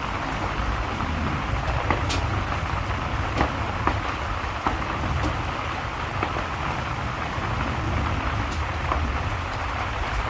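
Steady rain with a low rumble underneath and scattered sharp pops and ticks, from a rain-and-fireplace ambience mix.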